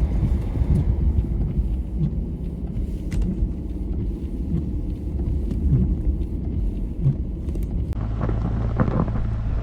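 Car driving on a snow-covered road: a steady low rumble of engine and tyres with scattered light clicks, changing to a steadier hum about eight seconds in.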